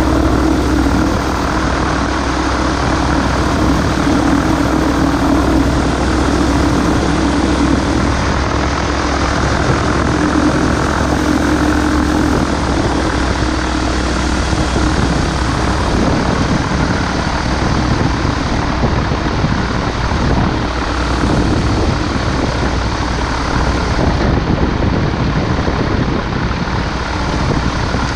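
Microlight aircraft's propeller engine running, with a steady hum that fades about halfway through, over a constant rushing noise.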